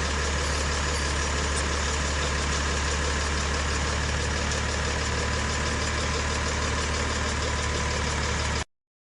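Engine idling sound, a steady low rumble and hum that stays even, then cuts off abruptly shortly before the end, leaving dead silence.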